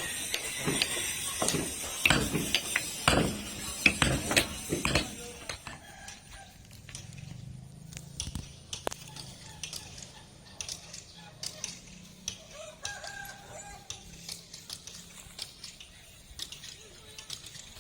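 A quick run of sharp knocks and taps for about the first five seconds, then quieter, with a rooster crowing faintly later on.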